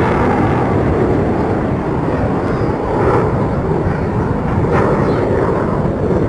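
Eurofighter Typhoon's twin Eurojet EJ200 turbofans giving a loud, steady jet noise as the fighter flies its display.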